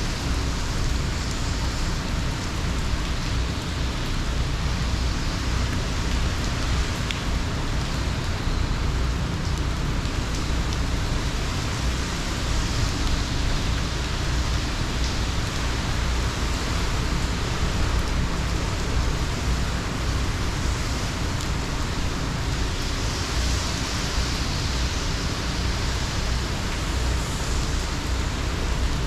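Heavy rain pouring down in a steady, unbroken hiss, with a deep rumble underneath.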